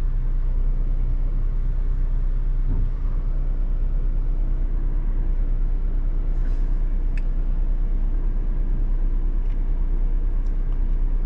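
Car engine idling at a steady low hum, heard from inside the cabin while the car waits in traffic. A couple of faint clicks come about midway.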